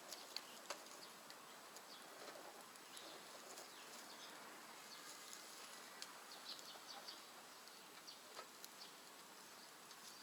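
Faint, sparse crackles and ticks of wood burning in a rocket stove, over a quiet hiss.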